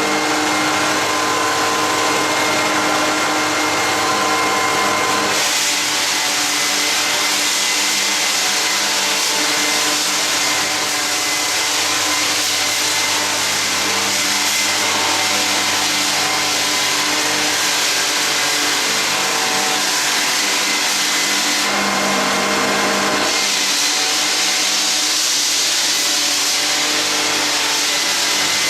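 Drum floor sander running steadily with a motor hum under a loud hiss. The hiss grows louder and the hum fades about five seconds in, as it does again a little after twenty-three seconds following a short return of the hum.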